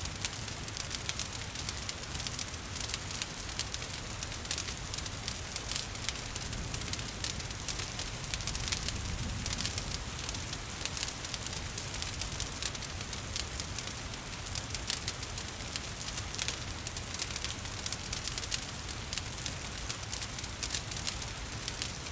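Wood fire crackling and popping in a fireplace, with many small sharp crackles, over a steady hiss of rain and a low rumble.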